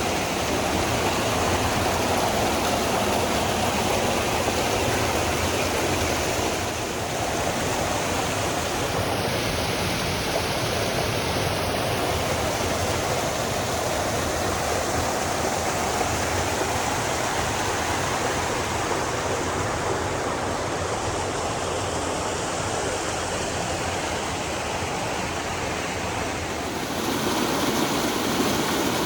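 Steady rush of flowing water, with small shifts in level about seven seconds in and near the end.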